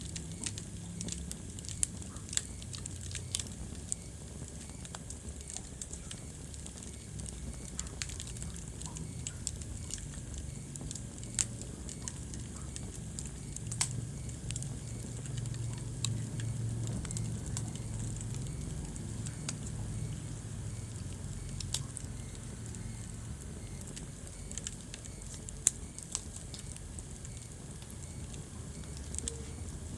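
Wood fire crackling in a fireplace: sharp pops every second or two over a low, steady rumble of burning logs.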